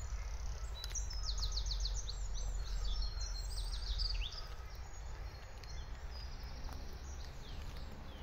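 Songbirds singing: quick runs of high, rapidly repeated notes in the first few seconds, then scattered calls, over a steady low rumble that eases about four seconds in.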